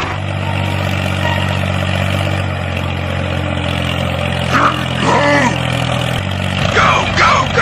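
A motor vehicle engine running steadily with a low hum. Short voice-like cries with falling pitch come twice, about midway and near the end.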